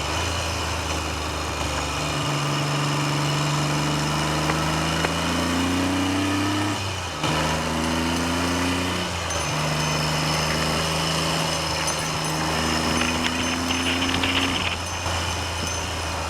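Triumph Trident's three-cylinder engine pulling under way, its pitch climbing, dropping at gear changes about seven and nine and a half seconds in, then climbing again. Heavy wind noise on the microphone.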